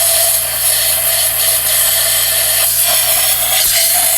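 A machine running steadily, giving an even, loud hiss over a constant hum.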